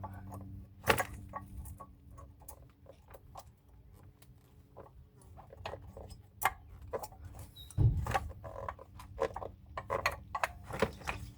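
Light metallic clicks and taps of brake pads being seated and slid in the caliper bracket's retainer clips, with a few louder knocks about a second, eight seconds and eleven seconds in.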